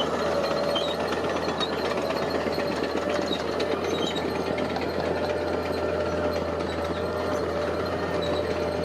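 Diesel engine of heavy construction machinery running steadily with a rapid clatter, a steady high whine and a low hum under it.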